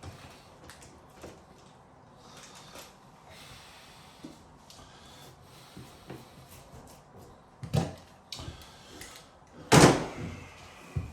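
Quiet rustling and small clicks of handling, then two loud thumps near the end, the second the louder with a brief ring after it.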